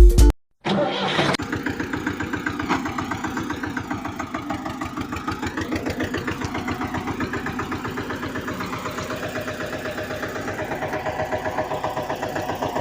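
An engine starts up after a brief silence, then runs with a steady rapid chugging, its pitch drifting slightly up and down.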